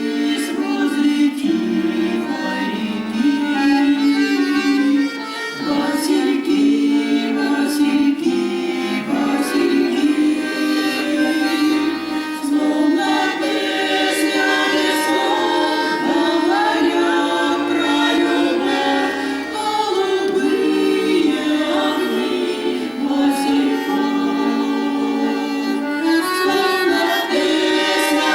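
Voices singing a song with instrumental accompaniment.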